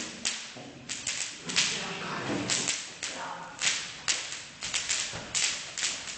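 Bonfire burning with loud, irregular sharp cracks and pops, two or three a second.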